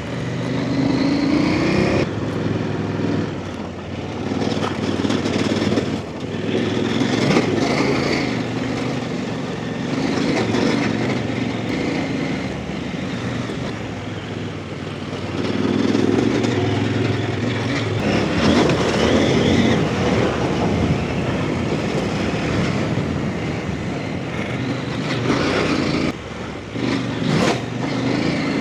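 Off-road motorcycle engine running under changing throttle as it is ridden, the revs rising and falling.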